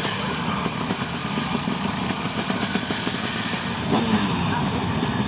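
Motocross sidecar engines running steadily at a low idle-like pace, with a low engine tone coming up a little about four seconds in.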